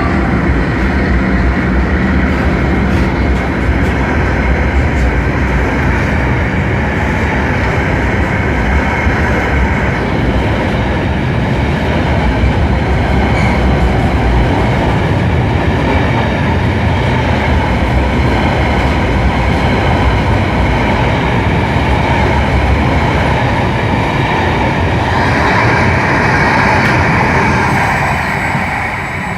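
Freight train of empty coal wagons behind a CRRC CDD5 diesel-electric locomotive rolling past, a steady loud rumble of wheels on the rails. Late on a brighter, higher ring of the wheels comes in, then the sound drops off at the end.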